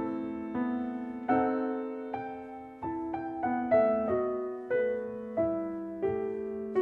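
Background piano music: slow, soft chords struck about once every second or less, each ringing away before the next.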